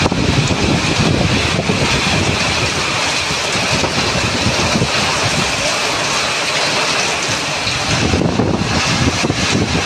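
Heavy rain pouring down steadily, with wind rumbling on the microphone.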